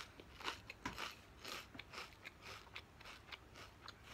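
A person chewing a mouthful of crisp potato chips: a quick, uneven run of small crunches, several a second.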